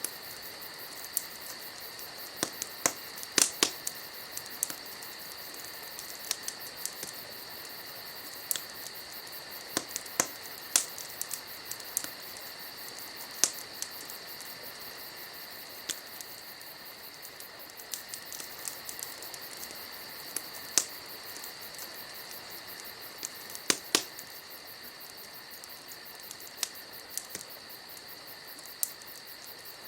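Wood fire crackling, with irregular sharp pops every second or so and a few louder snaps, over a steady high-pitched chorus of insects trilling.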